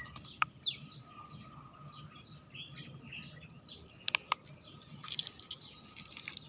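Silicone pop-it keychain bubbles pressed close to the microphone, giving a few sharp little pops, two close together about four seconds in. Birds chirp in the background.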